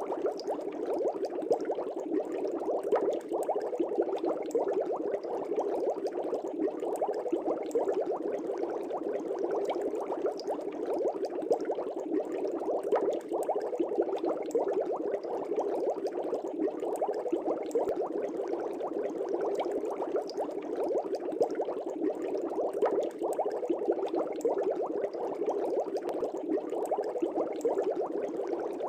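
Air bubbles streaming and burbling steadily in an aquarium fish tank: a dense, even patter of small bubble pops.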